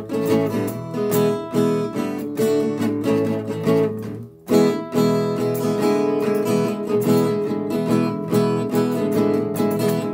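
Acoustic guitar strummed in a steady rhythm as the instrumental opening of a folk-rock song, with a brief break in the strumming about four seconds in.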